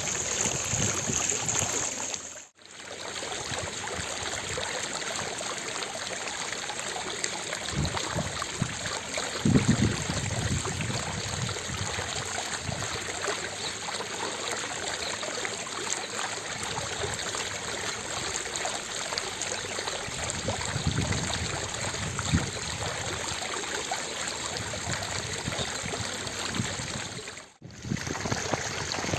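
Fountain water splashing and falling steadily. The sound briefly drops out about two and a half seconds in and again near the end, with a few low rumbles in between.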